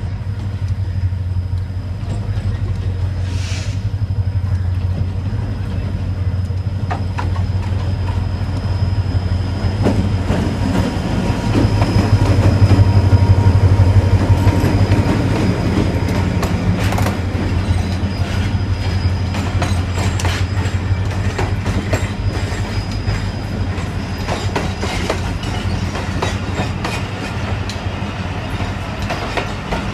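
Arriving passenger train led by an EMD HGMU-30R diesel-electric locomotive. Its engine drone grows loudest as the locomotive passes about twelve seconds in, then the coaches roll by with their wheels clicking over the rail joints.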